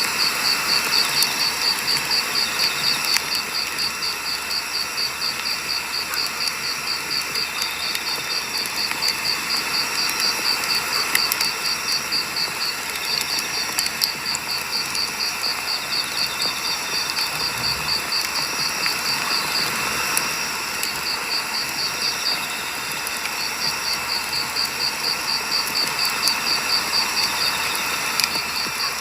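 Firewood campfire burning, with scattered sharp crackles and pops over a steady low rush. A cricket chirps in a fast, even rhythm throughout, stopping for a few seconds about two-thirds through.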